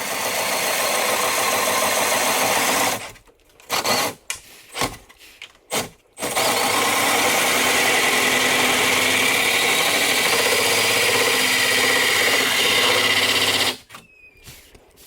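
Handheld power tool cutting into a carbon fiber hood. It runs steadily, stops about three seconds in for a few short blips, then runs again for about seven and a half seconds before cutting off near the end.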